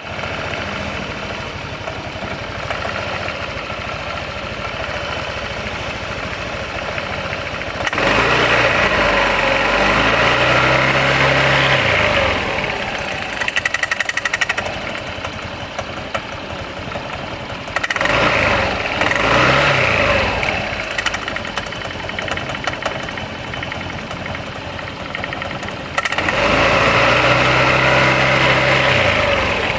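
Kymco Xciting 300 scooter's single-cylinder engine idling and revved up and back down three times, with a rattling drivetrain noise, the abnormal sound the owner is asking about, which the dealer judged normal.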